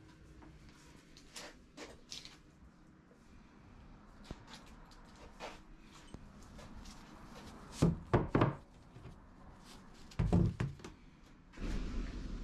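Scattered light clicks and knocks, with two clusters of heavier thuds about eight and ten seconds in; a steady low rumble starts near the end.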